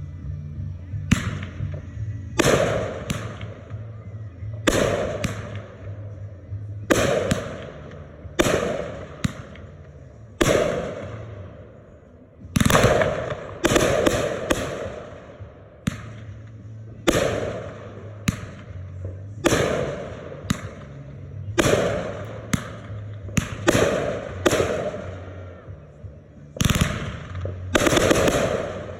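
Consumer firework mortar shells going off in a long run of sharp bangs, roughly one every second or so, each followed by a fading crackle and echo.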